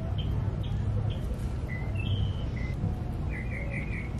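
Small birds chirping: short high calls every half second or so, with a quick run of four chirps about three seconds in, over a low steady rumble.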